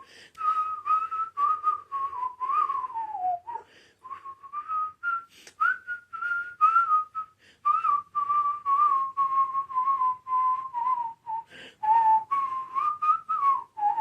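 A person whistling a melody: a string of short, clear notes that step and slide up and down, with a little breath noise under each one.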